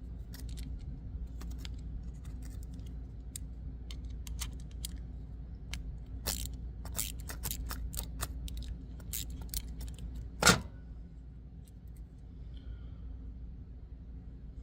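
Irregular small metallic clicks and taps of hand tools being worked on metal parts, with one louder knock about ten and a half seconds in, over a steady low hum.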